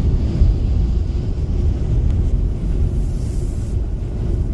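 Steady low rumble of a vehicle driving in gusting wind, with wind noise on the microphone.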